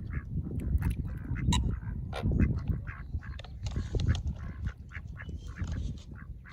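Mallard ducks quacking, many short quacks in quick succession, over a steady low rumble.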